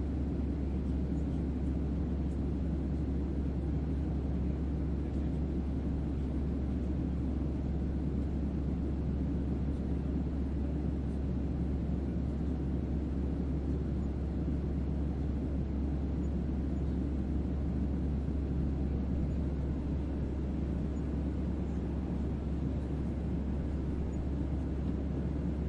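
Steady, unchanging white-noise ambience with heavy deep bass: a low rumbling hum meant as a starship's onboard hum.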